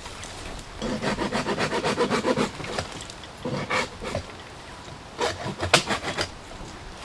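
Wood being worked by hand: a run of fast, rhythmic scraping strokes, then a few shorter scrapes and a sharp crack near the end.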